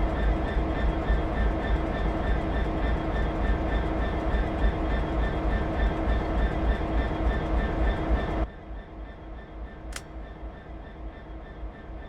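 Train running along the line: a steady rumble with a few steady tones through it. The sound cuts off abruptly about eight seconds in, leaving quieter background with one brief sharp sound about ten seconds in.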